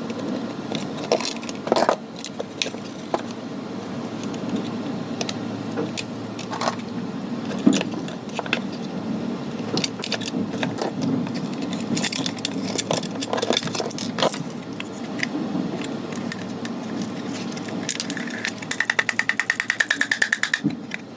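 Scattered clicks, knocks and rattles of small plastic parts being handled over a steady low hum. A rapid, even buzz starts about three-quarters of the way through and lasts a couple of seconds.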